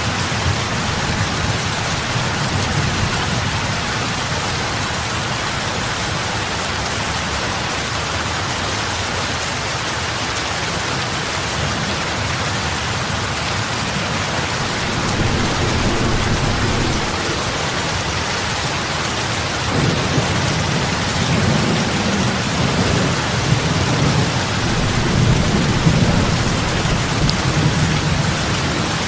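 Heavy rain falling steadily on open water, a dense even hiss of drops. In the second half a low rumble swells up under it and keeps rolling.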